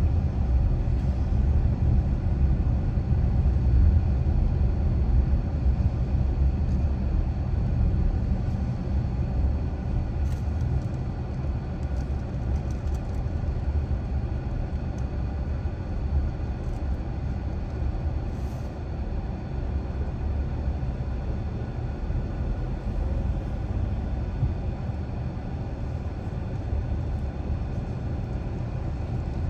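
Steady low rumble of a car driving at moderate speed: engine and tyre-on-road noise.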